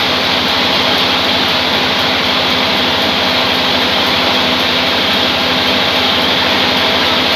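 Band sawmill running with a loud, steady mechanical noise: a constant hum under a hissing whine, with no change in level.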